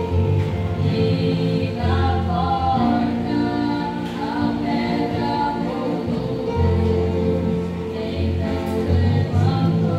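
Gospel worship music: a group singing a hymn together over sustained instrumental accompaniment with a deep bass line.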